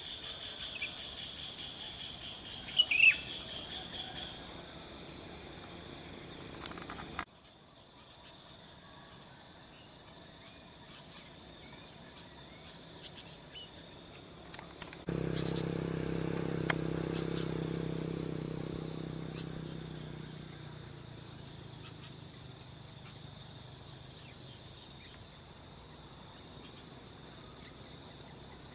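Insects trilling steadily in a high, fast pulsing chorus, with a few short bird calls in the first few seconds. The sound changes abruptly twice, and about halfway a low hum comes in and fades away over several seconds.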